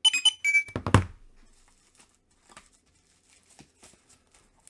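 Plastic crinkling and squeaking as comic books are handled, ending in a sharp thump about a second in as one is put down, then faint rustling.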